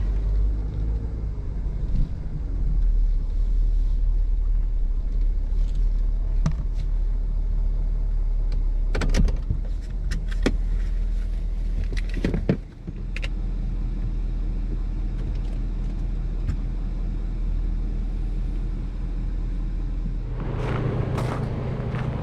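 A car driving, with a steady low rumble and a few sharp clicks and knocks about halfway through.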